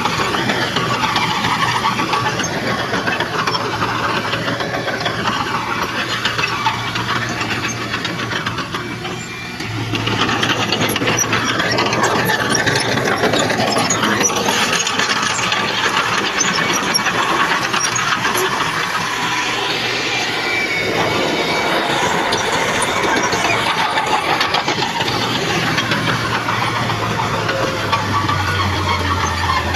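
Heavy earthmoving machinery at work: a bulldozer's engine running steadily with squealing and rattling from the machine, briefly easing off about nine seconds in.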